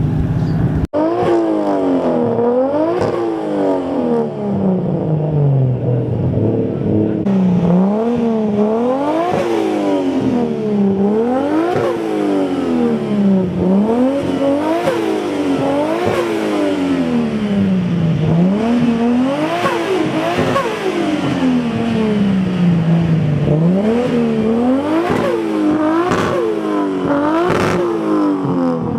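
Nissan 180SX's turbocharged four-cylinder engine revved over and over, its pitch climbing and dropping back every second or two.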